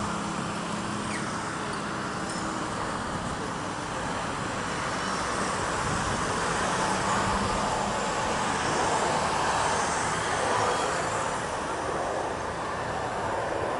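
Steady, even roar of distant engine noise that swells a little in the middle and eases near the end.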